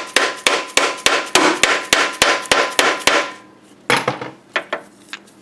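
A hammer tapping in quick, even blows, about three to four a second, driving a new front crankshaft seal into the engine's front cover. After a short pause, a few more blows follow.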